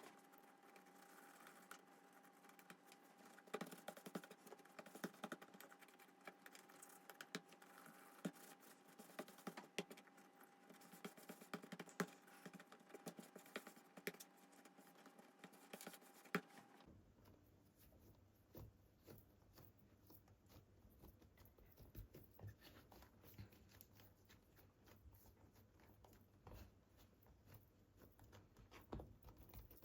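Faint, scattered small clicks and taps, with a faint steady tone in the background until a change about seventeen seconds in.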